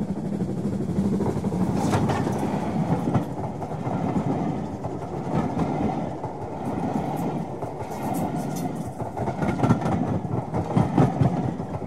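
Railway coaches running past close by: a steady wheel rumble with clicks over the rail joints, more of them near the end.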